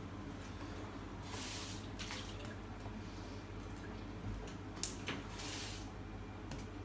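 Water from a kitchen tap splashing in short spells as a plastic bowl is rinsed in the sink, with a few light clicks and knocks, over a steady low hum.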